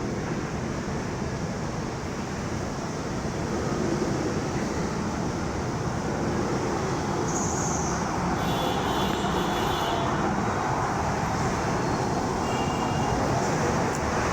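Steady rumble of a moving MRT-3 light-rail train, with a few faint, brief high tones about halfway through and again near the end.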